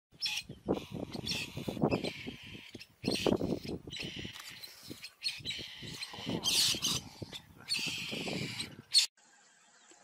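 Birds calling, with scuffling and thumps, in several short segments cut one after another.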